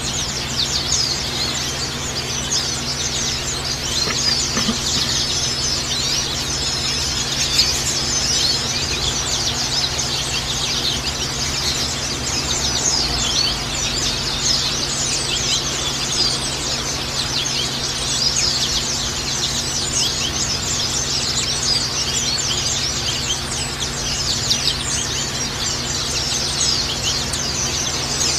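White-eyes (pleci) singing, a continuous rapid, high twittering song of quick chirps and trills, over a steady low hum.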